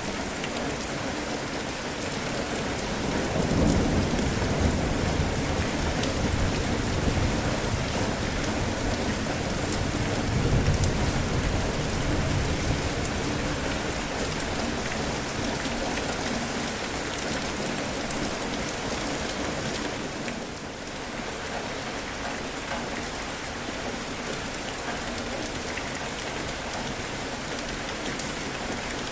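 Steady rain falling, with low rumbles of thunder swelling up about three seconds in and again about ten seconds in.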